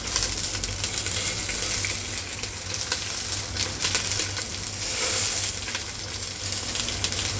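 Raw chicken wings frying in a little oil over medium heat: a steady sizzle with scattered crackles and pops.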